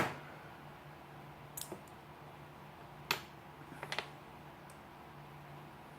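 Sharp clicks of a Leatherman Wingman multi-tool being handled and worked apart: one loud click at the start, then a few lighter clicks spaced about a second apart. A faint steady low hum runs underneath.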